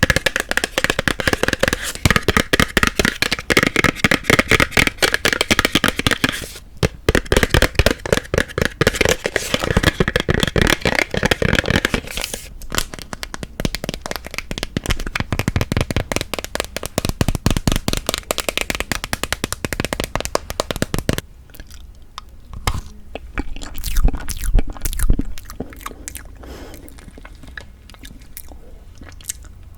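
Close-miked eating of tofu tiramisu: dense, rapid mouth clicks and chewing sounds, thinning out and dropping much quieter about two-thirds of the way through, with a few louder bites near the end.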